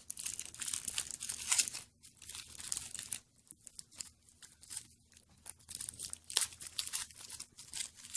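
Foil wrapper of a Kinder Surprise chocolate egg being torn open and crinkled by hand, in dense crackly bursts at first, then sparser, then busier again near the end.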